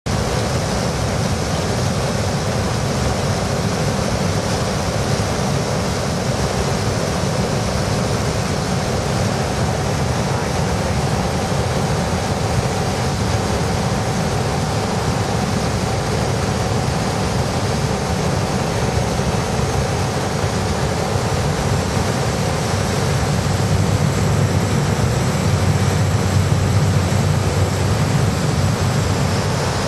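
Cessna 208B Grand Caravan single-engine turboprop running steadily in flight, a dense, even engine and propeller drone that swells a little near the end.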